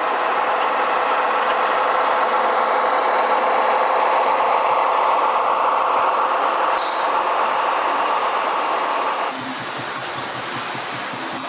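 Steady mechanical running noise with a fixed hum, and a short hiss about seven seconds in. Just after nine seconds it cuts abruptly to a quieter, lower, pulsing hum.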